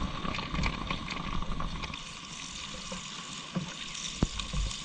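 Meat sizzling on a grill over a fire pit, a steady crackling hiss with a couple of light clicks near the end.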